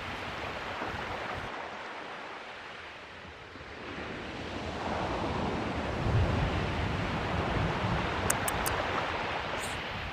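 Ocean surf breaking and washing, easing off a little and then building again about halfway through, with wind on the microphone.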